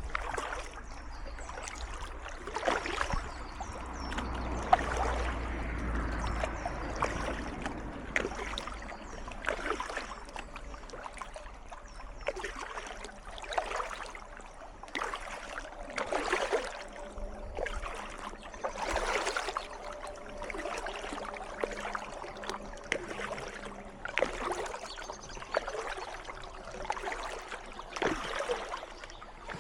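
Kayak paddle strokes dipping and splashing in calm canal water, a stroke every two seconds or so, over a soft trickle of moving water.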